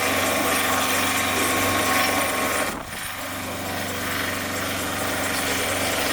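A machine or motor running steadily under a loud, dense hiss. The sound dips abruptly a little before the middle and then builds back up.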